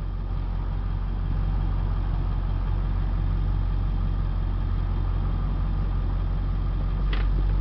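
2001 Ford F350's 7.3-litre Power Stroke V8 turbodiesel running with a steady low drone.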